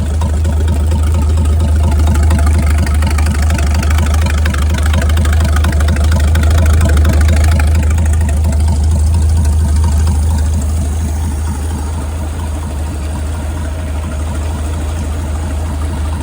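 Freshly overhauled Chris-Craft Model W marine six-cylinder engine, a marinized Hercules WXLD bored 0.060 over to about 404 cubic inches, running warmed up and smooth on its final test fire. Its speed and level ease down a little about ten seconds in.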